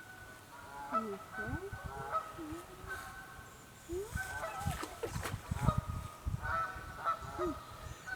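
Canada geese honking repeatedly in short calls, with low thuds among the honks in the middle of the stretch.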